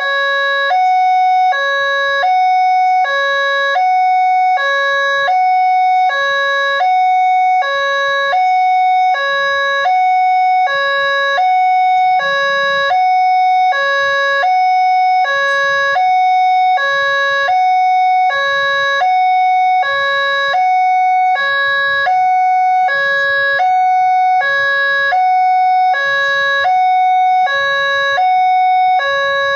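Railway level-crossing warning alarm sounding: an electronic two-tone signal alternating low and high, about one pair a second, over a steady high tone, warning that a train is approaching.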